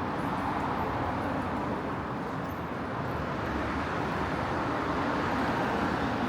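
Steady running noise of a Hankyu Kyoto Line train, heard from inside the carriage: an even rumble and rush with no announcements.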